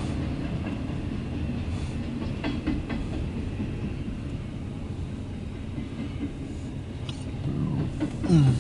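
CSX intermodal freight train rolling past: a steady low rumble of the cars on the rails, with a few sharp wheel clicks.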